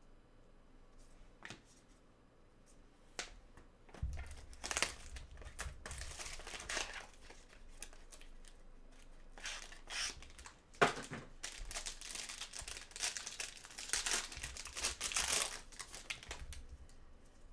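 Trading card pack wrappers crinkling and tearing open. It is quiet for about the first four seconds, then comes in repeated bursts of crinkling through most of the rest.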